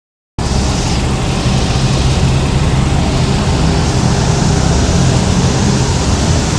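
Car engine running steadily: a low, constant hum under a loud, even hiss, starting just after the beginning.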